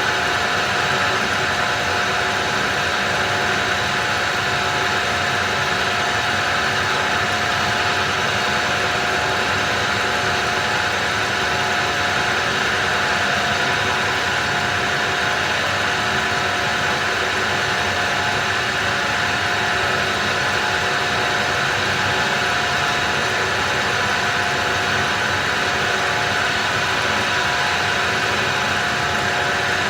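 Blower turbine of a homemade corn dryer running steadily, forcing air through the drying corn: a constant whir with a steady whine in it.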